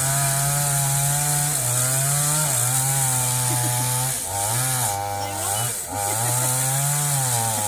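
Two-stroke chainsaw running hard while cutting a fallen tree, its engine note dipping and picking back up several times as the chain bites into the wood.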